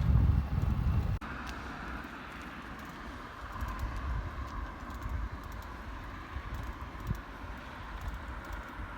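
Road bike riding on tarmac: wind buffeting the microphone with tyre rumble, dropping abruptly about a second in to a steadier, quieter rush with faint ticking.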